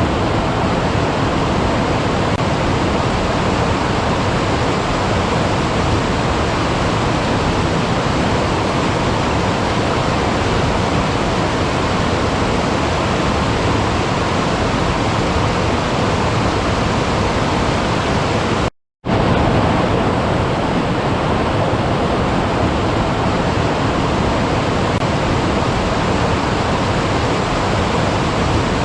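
Steady rushing of running water, with a split-second gap of silence about two-thirds of the way through, after which the rush resumes.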